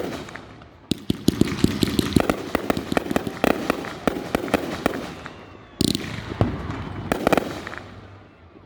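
Fireworks going off: a rapid run of sharp bangs and crackles starting about a second in, then a second volley about six seconds in.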